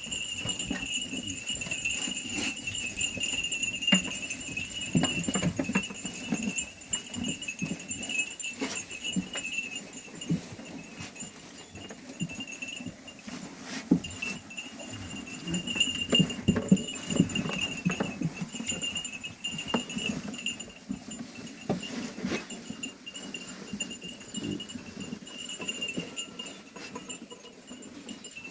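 A flock of sheep bleating repeatedly as they crowd in, with scattered clicks and taps from their movement. A steady high-pitched drone runs underneath.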